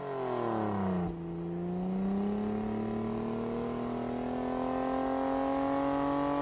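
Car engine under way: its note falls over the first second, then, after a brief click, climbs slowly and steadily as the car pulls and gathers speed.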